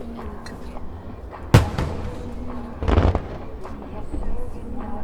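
Two firework shell bursts over pop music with a singing voice: a sharp bang about one and a half seconds in and a longer, rougher burst about three seconds in.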